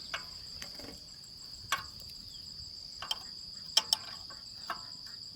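Steady high-pitched chirring of insects such as crickets, with a few sharp clicks and taps scattered over it, the two loudest coming close together a little past the middle.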